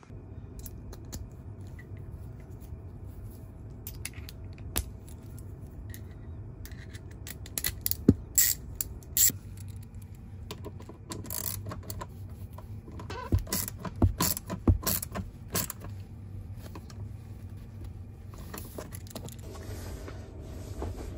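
Steady road and tyre noise inside a moving car's cabin, with sharp clicks and rattles scattered through it, most between about four and sixteen seconds in.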